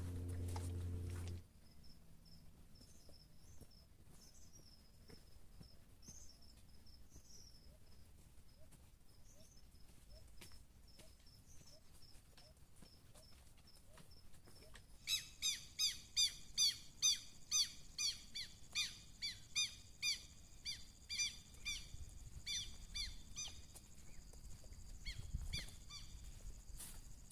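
A bird calling repeatedly in the forest: a series of loud, ringing, downward-sliding notes, one or two a second, starting about halfway through and running on, over faint high chirps. A steady low hum cuts off about a second in.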